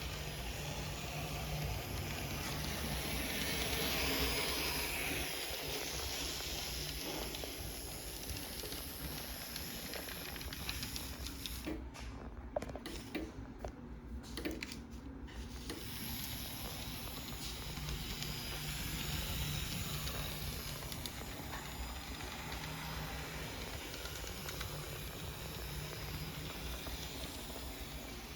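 An N scale model train running on a layout's track: a steady electric motor hum with a hiss of wheels on rail. A few light clicks come about halfway through.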